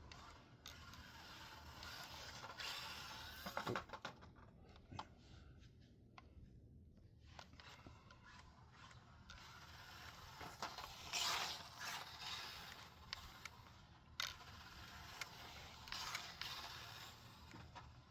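Maverick Microbe 1/24 brushed short course RC truck being driven: a small motor and gear whir with tires scraping on the surface, rising in several short surges a few seconds apart.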